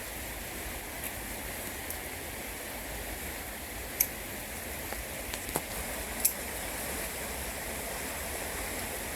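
Creek water running steadily, with a few short, sharp clicks or snaps around the middle.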